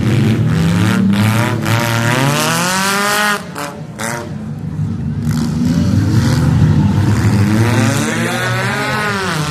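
Several derby cars' engines revving hard, their pitch rising and falling as they race round the track, with sharp knocks and bangs among them.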